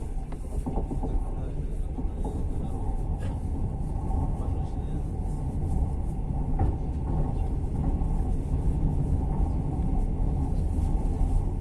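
Passenger train running, a steady rumble from the wheels on the rails heard from inside the carriage, with a few faint clicks.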